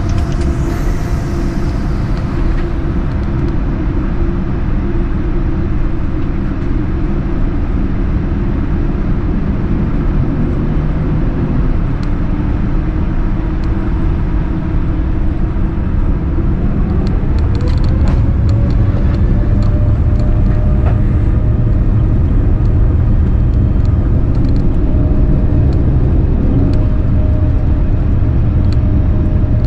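Boeing 787-9 cabin during the takeoff roll: a loud, steady rumble of the engines at takeoff thrust and the run along the runway. About 17 seconds in a tone rises in pitch and the sound grows louder.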